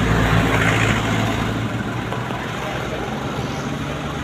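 Toyota Dyna dump truck's engine running with a steady drone that eases slightly after about a second.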